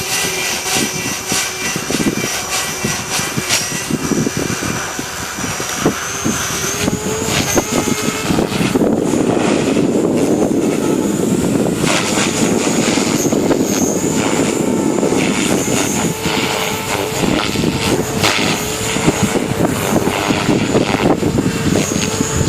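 JR Forza 450 electric RC helicopter in flight, its motor and rotor whine holding a steady pitch. Strong wind buffets the microphone throughout.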